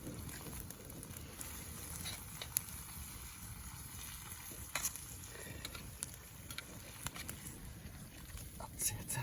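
Pork belly frying in butter in an iron frying pan over a wood fire: a steady sizzle with scattered pops and crackles.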